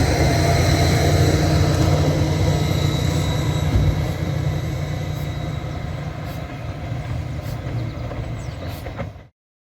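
A 15-inch gauge miniature railway train running, a steady low rumble with faint clicks that slowly fades away and then cuts off abruptly a little over nine seconds in.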